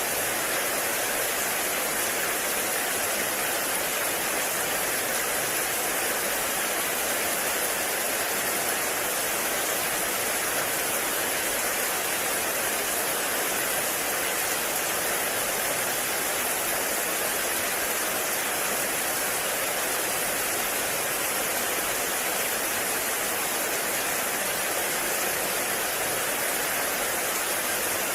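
Heavy rain falling steadily, a dense, even hiss with no distinct drops or pauses.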